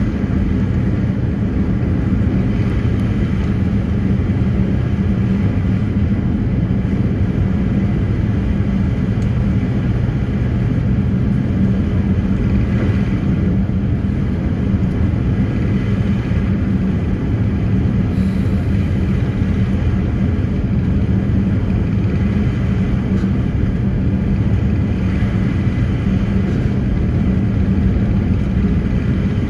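Passenger ferry's engines running steadily under way, a loud, even low drone that does not change.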